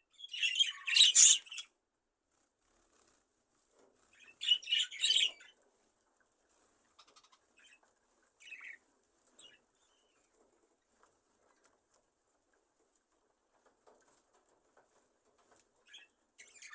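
Budgerigars flapping their wings in an aviary: two loud bursts of flapping, one about a second in and one about four seconds in, followed by faint scattered chirps and small rustles.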